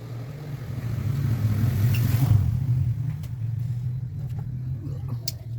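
A car engine running with a steady low hum; the sound swells to a peak about two seconds in, then eases back.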